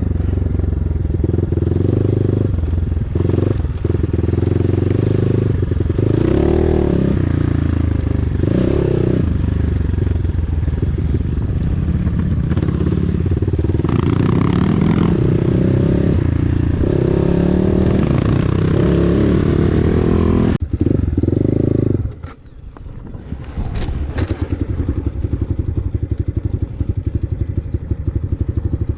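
KEWS K16 PRO enduro motorcycle engine running under throttle, its pitch rising and falling as it is ridden. After a sudden break about two-thirds of the way through, it settles into a steady idle.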